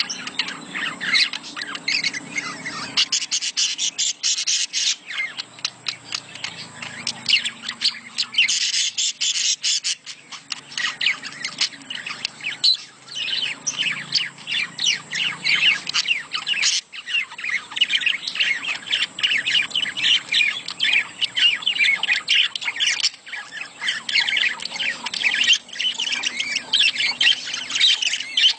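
Many budgerigars chattering in a dense, continuous stream of rapid chirps, warbles and squawks: budgie mating chatter, the kind played to stimulate pet birds into breeding.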